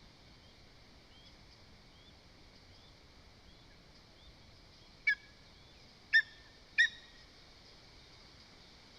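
Lesser spotted eagle giving three short, loud yelping calls in the second half, the last two close together. Behind them, fainter short rising chirps repeat about every 0.7 s.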